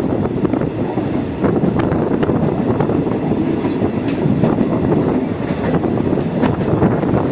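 Passenger train rolling along the track, heard from aboard a carriage: a steady rumble of wheels on rail with irregular clicks and knocks.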